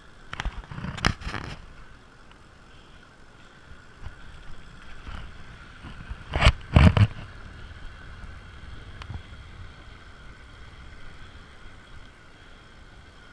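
Bicycle rolling along with a steady faint hum, its frame or camera mount clattering in two bursts over bumps, about a second in and again around six to seven seconds in.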